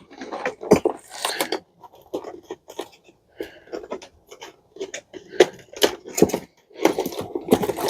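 Irregular clicks, knocks and rattles of a dishwasher's plastic clips and parts being pried loose and handled.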